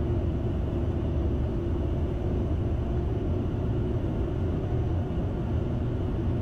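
Steady cockpit noise of a Bombardier Challenger 650 business jet on final approach with gear and flaps down: a low rumble of airflow and engines with a faint steady hum over it.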